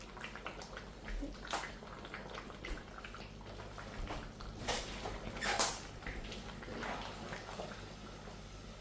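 Pot of chicken curry simmering: scattered small pops and crackles, with a few louder sputters about a second and a half, four and a half, and five and a half seconds in.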